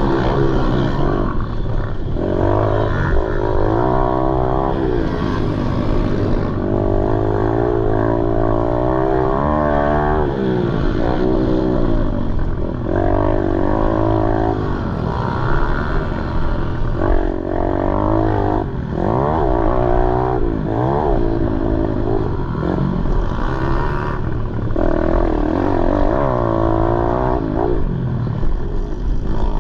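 Pit bike engine racing, revving hard, its pitch climbing and then dropping again and again as it shifts gears.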